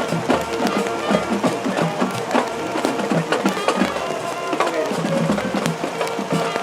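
Marching band playing, with sustained wind notes over quick, busy drum hits.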